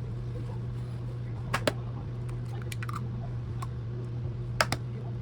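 A steady low hum, like a small motor running, with a few light clicks and knocks scattered through it.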